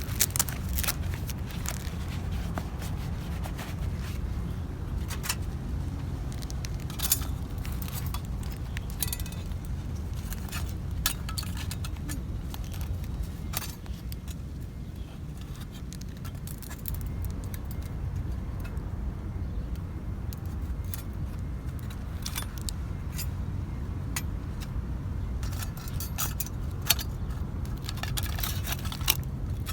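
Scattered light metallic clinks and rattles, irregular throughout, as of metal camp gear being handled, over a steady low rumble.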